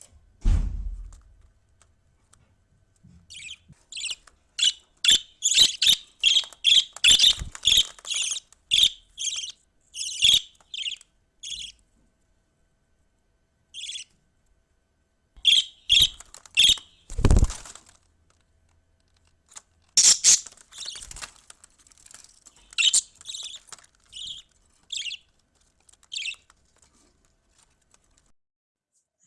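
Young budgerigar chirping: short, high-pitched calls in runs of about two a second, with pauses between the runs. A few low bumps come near the start and again partway through.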